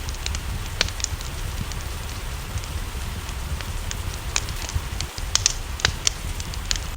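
Wood fire crackling, with sharp pops at irregular intervals over a steady low rumble, mixed with an even hiss of rain.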